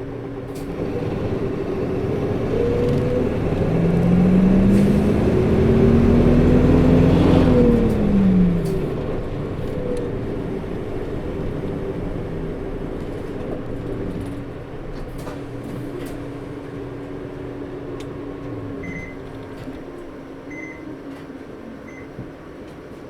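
Hino PKG-RA274KAN city bus heard from inside. The engine and its coupling fan rise steadily in pitch as the bus accelerates for about seven seconds, then drop off and run on more quietly and evenly. The fan runs the whole time and is unusually loud for the engine speed, a quirk of this particular bus. A few short high beeps sound near the end.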